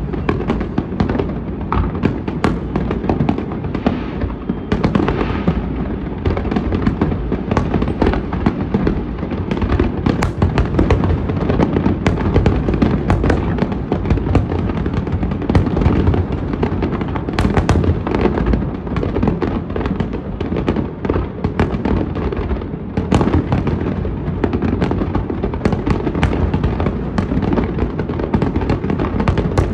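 Fireworks display going off in a dense, unbroken barrage of deep booms with many sharp cracks.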